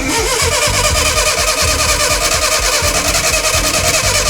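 Datsun pickup's engine cranking over on its starter, starting abruptly and running on steadily.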